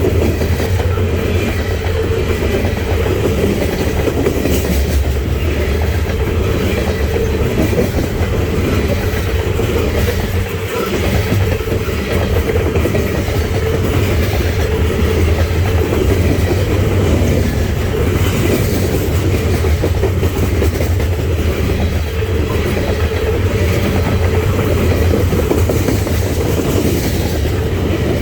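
Freight cars of a coal train rolling past on the rails, a loud steady rumble with wheel clatter.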